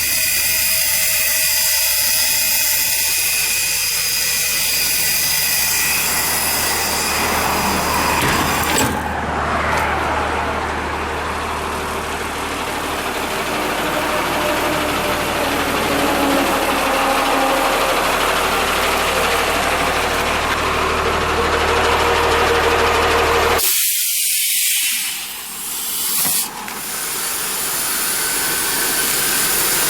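A school bus's 5.9-litre mechanical Cummins diesel runs steadily under a strong hiss. The sound changes abruptly about nine seconds in, and the low hum drops out briefly near the end.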